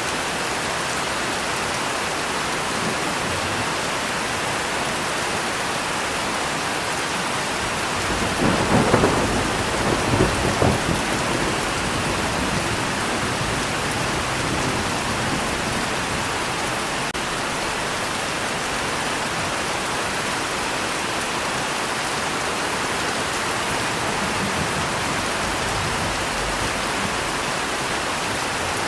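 Steady heavy rain falling, with a roll of thunder rumbling about eight seconds in and fading by eleven seconds.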